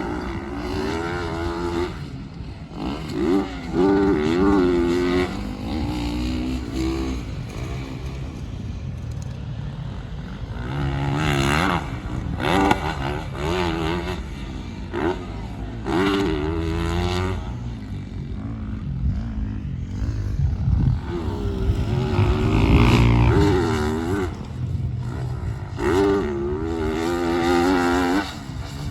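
Motocross bike engine revving hard and easing off again and again while ridden around a track, its pitch rising and falling with each burst.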